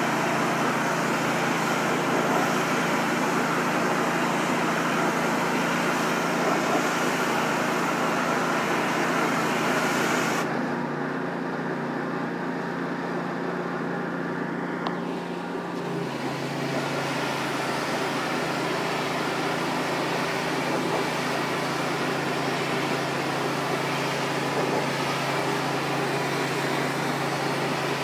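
Pressure washer engine running steadily with the hiss of the water spray. About ten seconds in the spray stops and the engine note rises slightly; about five seconds later the spray starts again and the note drops back.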